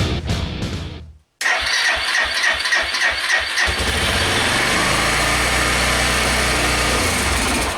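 Suzuki TU250X's single-cylinder engine turned over on the electric starter for about two seconds, then catching and running steadily. Music fades out just before the cranking starts.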